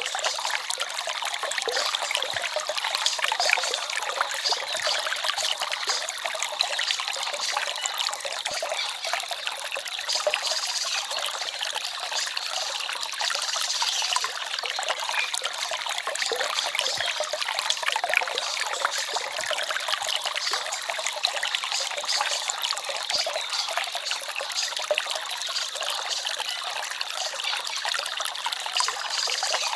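Small forest stream babbling and trickling steadily, a dense continuous splashing with little low rumble.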